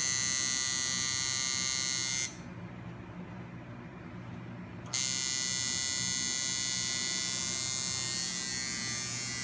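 Electric tattoo machine buzzing steadily while it works ink into the skin of a forearm. The buzz drops much quieter about two seconds in and comes back at full strength about five seconds in.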